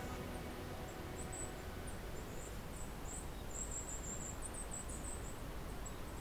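Very high, thin calls of a small forest songbird: a quick, uneven series of short notes, over a steady low background rumble.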